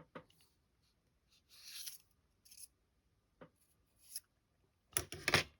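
Light clicks and short scrapes of small model parts being handled: a prop shaft being worked out of a 3D-printed prop wing and off its threads. A cluster of quick clicks and scrapes comes near the end.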